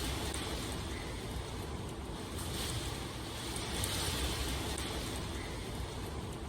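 Steady rain falling: a dense, even hiss over a low rumble, with faint sharp ticks of single drops.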